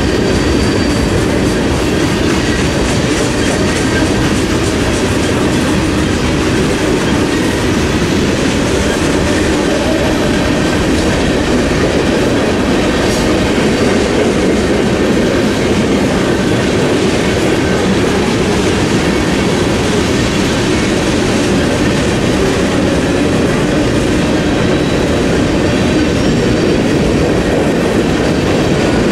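Freight cars rolling past: a steady rumble of steel wheels on rail, with a faint high wheel squeal near the start.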